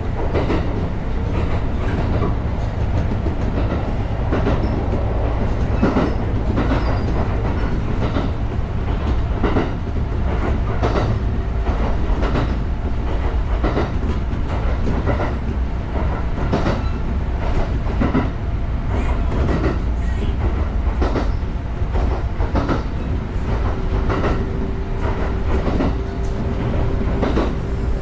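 Kintetsu Ikoma Line electric train running along single track, heard from the front of the car: a steady low rumble with the wheels clacking over rail joints. Near the end a steady whine joins in.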